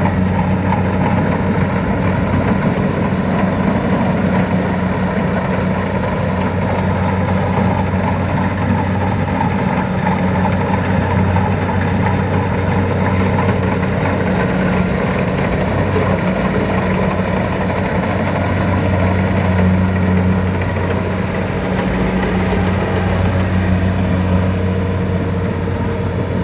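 Tractor diesel engine running steadily, a continuous low drone with little change in speed.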